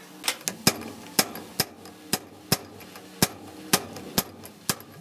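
Hammer blows struck over and over, a sharp crack about every half second, eleven in all.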